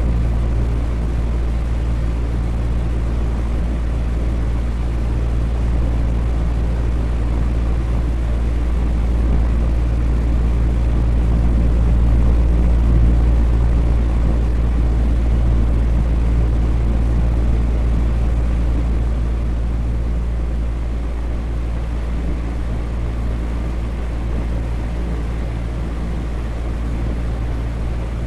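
Electric fan running steadily: a low hum under an even rush of air, growing slightly louder around the middle and easing off again.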